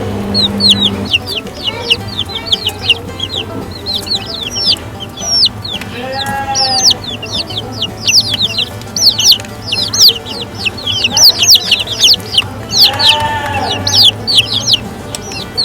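A group of chicks peeping without pause: many rapid, high cheeps that slide downward, with two longer, lower calls about six and thirteen seconds in.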